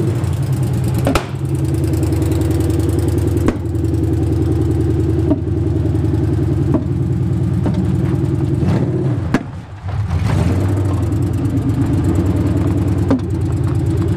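Nissan 240SX's swapped-in VH45DE V8 idling and creeping the car along at walking pace, with a sharp pop from the exhaust every couple of seconds. The owner blames the popping on the ignition timing still needing to be set and on an idle that is set too high. The engine note dips briefly about two-thirds of the way through.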